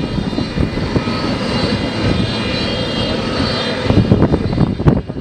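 Antonov An-225 Mriya's turbofan engines running: a steady whine of several high tones over a heavy, fluctuating rumble.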